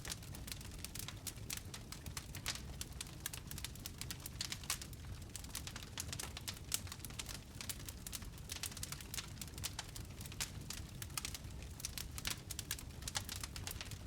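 Wood fire crackling in a fireplace: many small irregular pops and snaps over a low steady rumble of burning.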